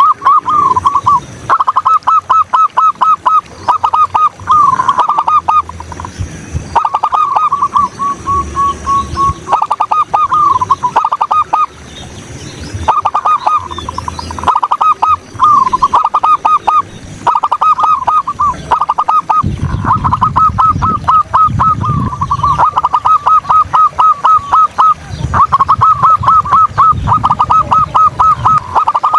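Zebra dove (perkutut) cooing: rapid runs of short, clipped notes, repeated in bursts of a second or two with brief pauses, over and over.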